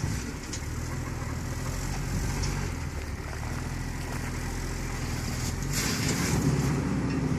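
Jeep engine running steadily at low revs, with a short burst of hissing noise about six seconds in.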